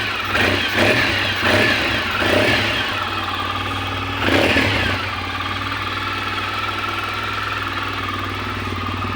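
Suzuki Burgman 650's freshly installed, tuned 638 cc parallel-twin engine on its first run, blipped on the throttle: four quick revs in the first three seconds and a bigger one about four seconds in, each dropping back to idle. It then idles steadily.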